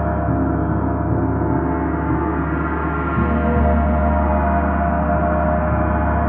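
A gong sounding in a sustained wash of many overlapping ringing tones, the low tones swelling slightly about three seconds in.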